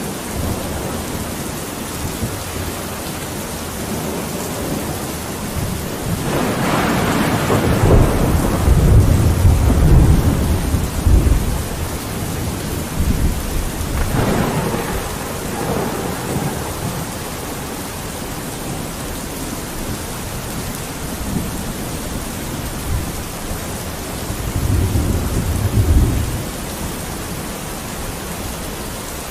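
Steady rain with rolls of thunder: a long deep rumble about six seconds in, a shorter one around fourteen seconds, and another near the end.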